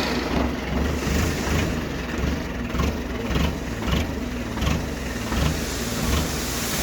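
Tractor engine running at idle with a steady low rumble, while paddy is being unloaded; short knocks recur about every second over it.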